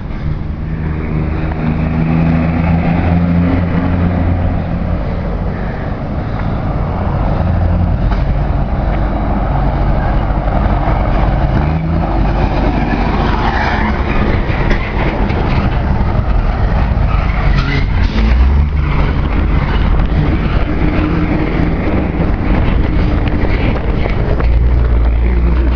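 A car engine running loudly and steadily, its low drone shifting up or down a few times.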